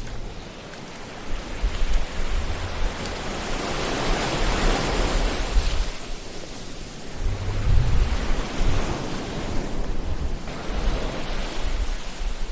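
Ocean waves washing in, a steady rush that swells about four seconds in and again about eight seconds in, with an uneven low rumble underneath.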